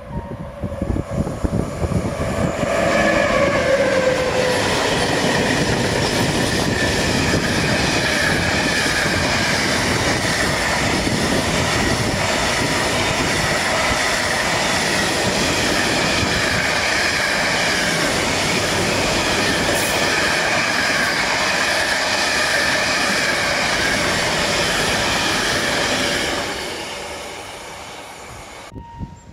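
Škoda class 163 electric locomotive hauling a mixed freight train of container flats and tank containers past at speed. A brief falling tone sounds as the train's noise rises about three seconds in. The wagons then roll past with steady wheel-on-rail noise for over twenty seconds before it fades near the end.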